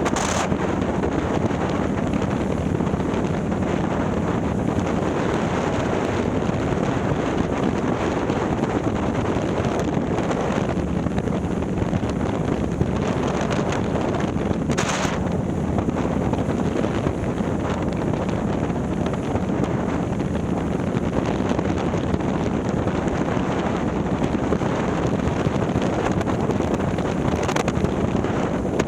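A Harley-Davidson Milwaukee-Eight V-twin, bored out to 130ci and breathing through a ThunderHeader exhaust, running steadily while the bike cruises, with heavy wind rush on the microphone. A short sharp click about halfway through.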